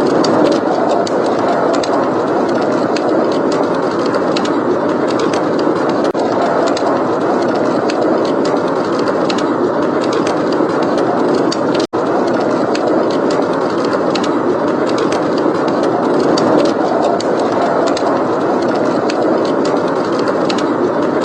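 Blizzard wind blowing steadily, with a wood fire crackling over it in many small sharp pops. The sound cuts out for an instant about twelve seconds in.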